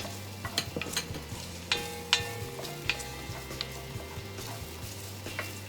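Onions sizzling in hot oil in a pan, stirred with a metal utensil that strikes the pan several times with short ringing clinks. The loudest clinks come about two seconds in.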